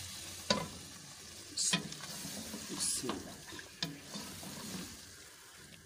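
Mutton liver pieces sizzling as they fry in oil and masala in a pressure cooker pot, stirred with a spoon that scrapes and knocks against the pot about four times.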